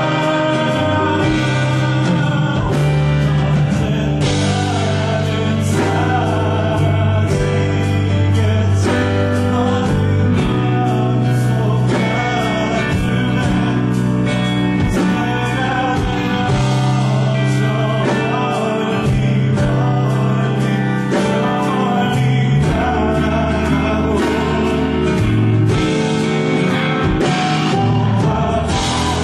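Live pop-rock band playing, with drums, bass, guitar and piano and a singing voice over them.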